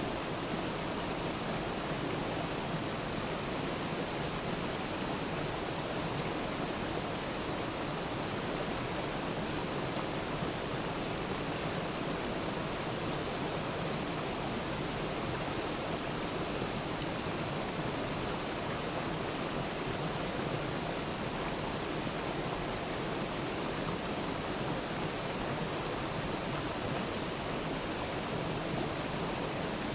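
Waterfall: water falling and splashing in a steady, even rush, with no change throughout.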